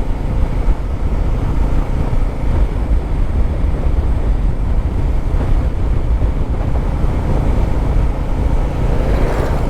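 Motorcycle running at a steady cruise on the road, its engine under a steady rush of wind on the microphone.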